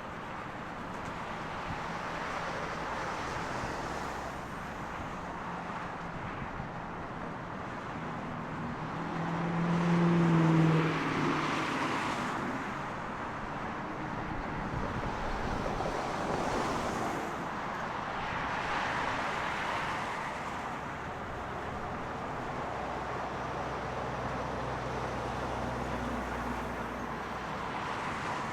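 Steady outdoor rumble of road traffic and distant jet noise near the airport, swelling to its loudest about ten seconds in as a vehicle passes with a low hum that falls slightly in pitch.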